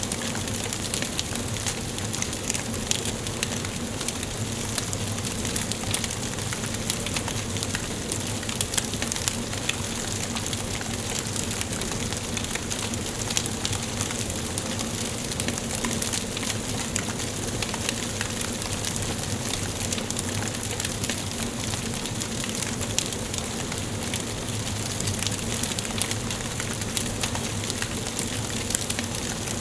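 Wood fire crackling in a fireplace: frequent small pops and snaps over a steady hiss.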